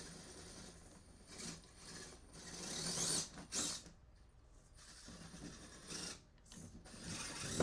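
Scale RC crawler's small electric motor and geared drivetrain whirring in uneven spurts as the truck crawls over rocks, with scraping and grinding of tyres and chassis on rock.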